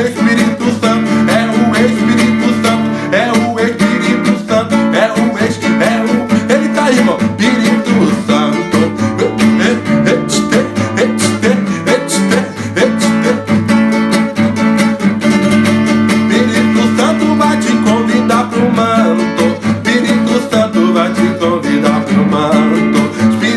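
Acoustic guitar strummed in a fast, driving Pentecostal 'corinho de fogo' rhythm, played as an instrumental passage with no sung words.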